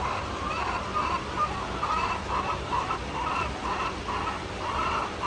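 Chickens clucking in a run of short calls, about two a second, over a steady low background hum.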